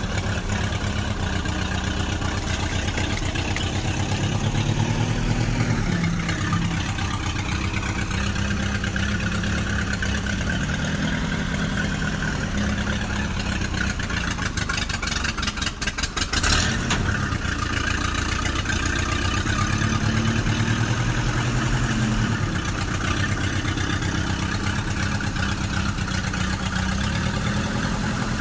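Small tractor engine running steadily, its pitch rising and falling a few times as the throttle changes, with a brief rapid clatter about fifteen seconds in.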